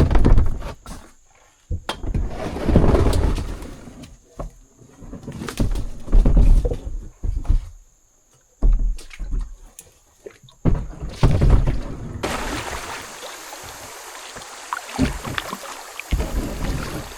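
Kayak running a small whitewater chute: water splashing and rushing around the boat in uneven loud surges with short gaps and a few knocks, settling into a steadier rush of water about twelve seconds in.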